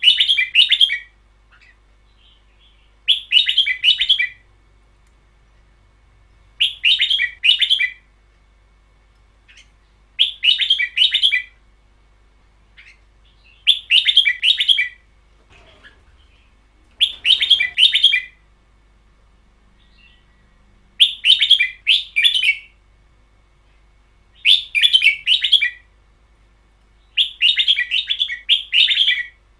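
Red-whiskered bulbul singing in the long double-phrase style: nine short bright phrases, each about a second long with two parts, repeated about every three and a half seconds.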